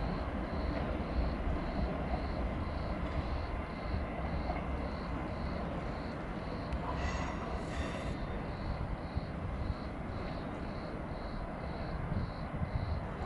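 Train rumbling steadily through the station, with a short high beep repeating about twice a second over it.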